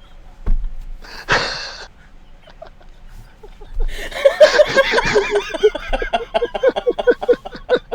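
A person laughing: a sharp breathy snort about a second in, then from about halfway a long run of quick, repeated wheezy laughs, four or five a second.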